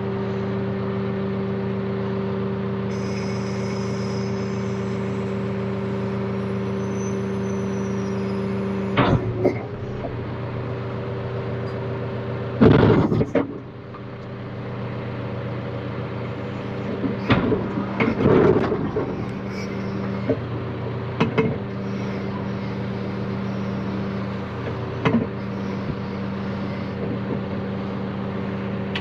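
John Deere 310K backhoe loader's diesel engine running steadily while the machine is worked, with several loud clunks and clatters from about nine seconds in, the loudest near the middle.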